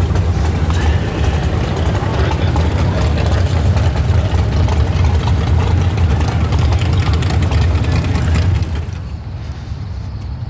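A large engine idling steadily with a deep, low rumble. It becomes much quieter about eight and a half seconds in.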